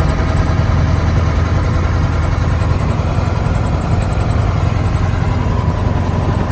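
Large diesel engine of a farm truck or tractor running steadily, with a deep rumble under a constant hum.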